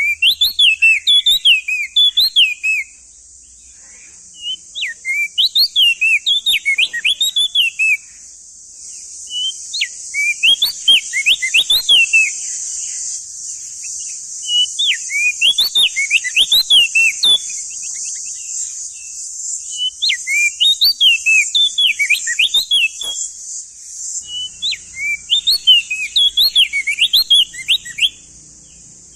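A male crested white-eye (opior jambul) sings loud song phrases of quick rising and falling whistled notes. There are six phrases, each two to three seconds long and about five seconds apart, over a steady high hiss.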